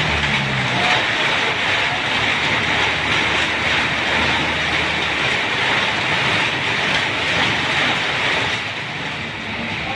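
Heavy rain pouring down in a steady, loud hiss, with a low rumble underneath.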